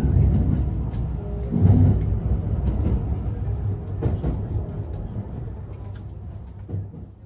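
Low, steady rumble inside a Thunderbird limited express carriage at a station platform, with a few faint clicks, fading steadily away over the last few seconds.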